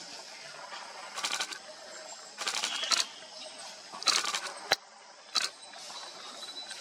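Camera shutters firing in several short rapid bursts, with one single sharp click between them, over a faint background of forest ambience.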